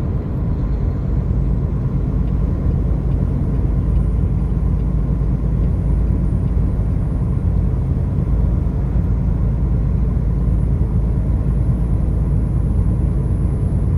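Car travelling on a highway: a steady low rumble of road and engine noise.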